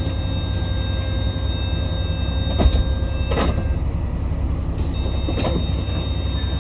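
Cabin of a Yutong ZK6128HG diesel city bus on the move: a steady low engine and road rumble with faint steady whine tones, and a few short rattling knocks from the body near the middle.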